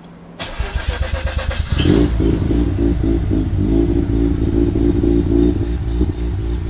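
Mazda RX-8's Renesis two-rotor rotary engine being started: a short spell of starter cranking, then the engine catches about two seconds in and settles into a steady idle.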